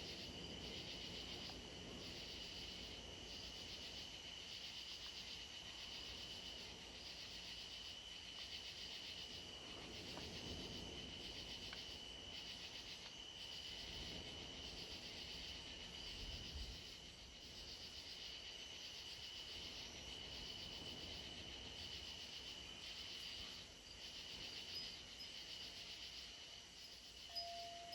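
A steady chorus of insects trilling in a high, evenly pulsing drone, with wind gusts rumbling low on the microphone at times. Near the end a single chime-like tone starts ringing and holds.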